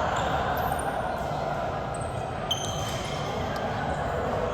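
Indoor basketball game sounds: a ball bouncing on the court and sneakers squeaking against a steady hum of voices. The sharpest squeak, with a knock, comes about two and a half seconds in.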